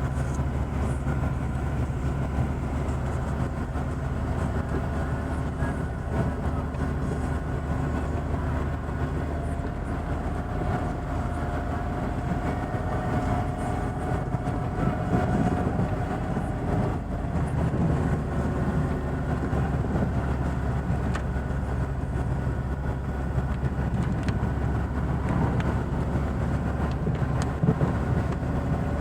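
Chevrolet Niva driving slowly through fresh snow: a steady engine and drivetrain drone with tyre noise, and a faint whining tone that comes and goes midway.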